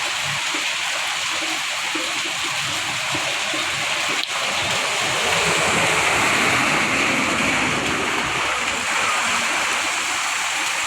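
Heavy rain pouring down: a dense, steady hiss of falling and splashing water that grows louder about halfway through.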